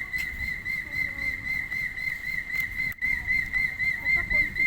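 A steady high-pitched whistling tone that warbles rapidly and evenly, over a low rumbling background.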